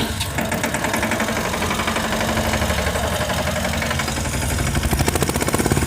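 Mini toy tractor running as it drives off, an engine-like chugging made of fast, even pulses that keep steady throughout.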